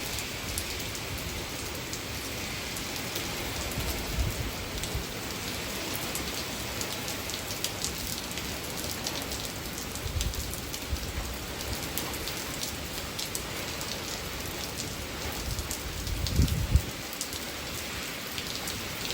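Steady rain falling on surfaces, from Hurricane Milton, with a few brief low rumbles about 4, 10 and 16 seconds in.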